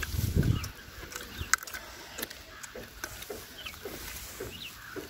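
Birds calling in short chirps, with one sharp click about one and a half seconds in.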